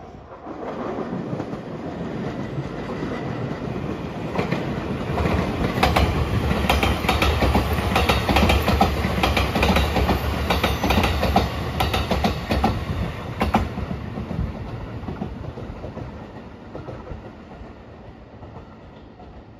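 JR West 227 series electric commuter train passing close by, its wheels clattering over the rail joints. The sound builds quickly, is loudest in the middle with rapid clicks, then fades as the train moves away.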